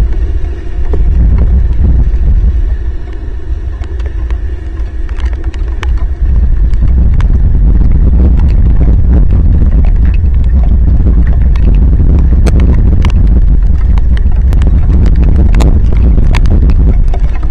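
Heavy rain hitting an outdoor camera microphone and its housing: a loud, dense low rumble with many sharp drop hits, growing louder about six seconds in.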